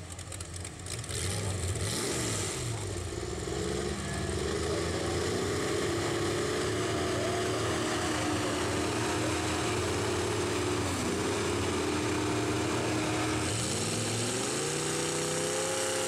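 Off-road truck engine running hard under load, its pitch wavering and dipping once, then revving up higher near the end.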